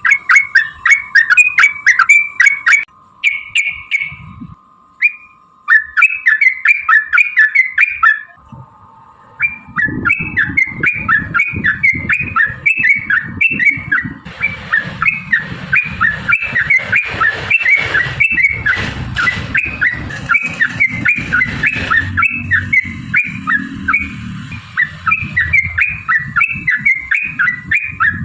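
Yellow-vented bulbul (trucuk) song: a fast, repeated run of bubbling chirps at about three a second, with short breaks about three and eight seconds in. From about ten seconds a low rumbling noise runs under the song.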